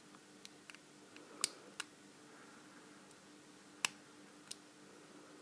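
Faint, sparse clicks of a lock pick and tension tool working the pins inside an Abus 72/40 padlock, about six in all, the loudest about a second and a half in and near four seconds in.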